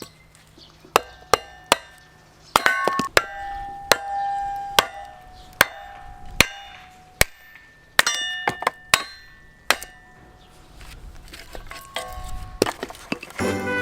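Metal camp gear being handled: a series of sharp, separate clinks and knocks, several ringing briefly, with quieter shuffling between them.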